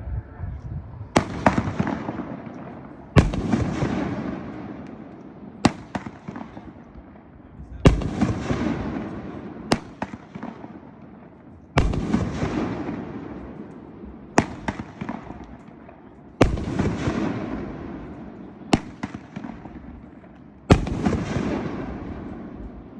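A 500-gram Dead Shot fireworks cake firing shot after shot. There is a sharp bang about every two seconds, big ones alternating with smaller ones, and each big bang is followed by a fading tail of noise lasting a second or two.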